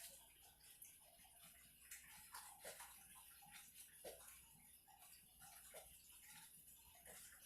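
Faint trickling water with scattered drips and plinks from a small enclosure waterfall running into a pond.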